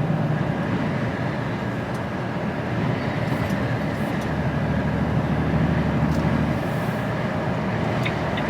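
Steady drone of an HGV truck's engine and road noise heard inside the cab while driving, with the low hum swelling for a few seconds in the middle.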